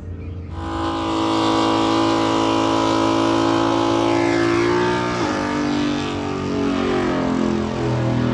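A car engine at high revs, held at a steady pitch for about four seconds. The revs then fall back and it is held again at a lower pitch.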